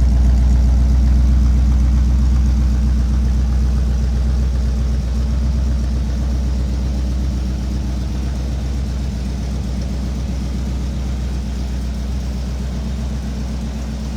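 Engine of a 1938 Chevrolet Master Deluxe street rod idling with a steady, deep rumble, gradually getting a little quieter.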